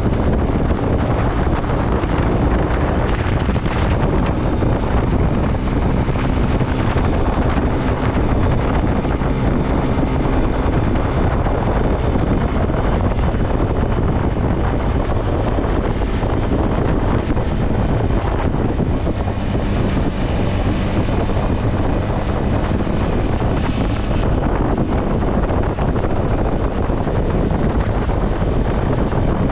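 Wind buffeting the microphone on a moving motorcycle, over the steady hum of the bike's engine.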